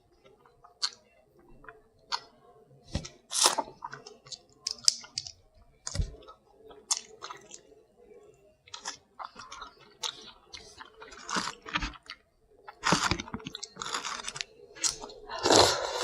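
Chewing and crunching while eating shellfish, with scattered sharp clicks and cracks of shell, growing busier near the end.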